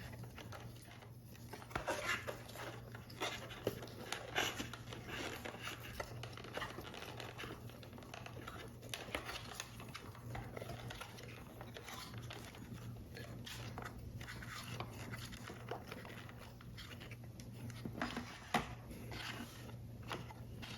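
Close-miked handling of paper and card pieces while assembling a paper model: soft rustling, scraping and small taps, with a sharper click near the end, over a steady low hum.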